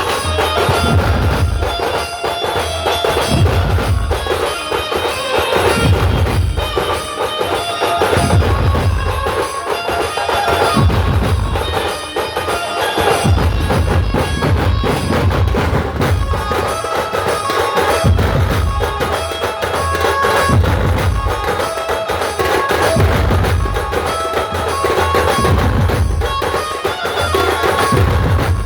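Dhumal band playing loud traditional drum-and-melody music: heavy bass drum beats pulse about every two seconds under a continuous melody line.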